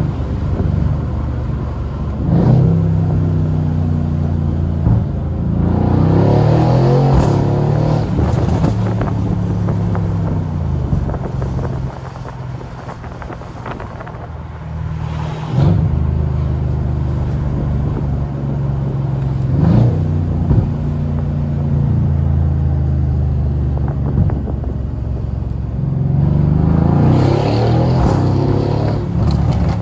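Mercedes-AMG C63's twin-turbo V8 pulling hard through the gears while driving. The engine note climbs and then drops back at each shift, with a short sharp crack at several of the shifts. It eases off to a quieter cruise partway through before pulling again.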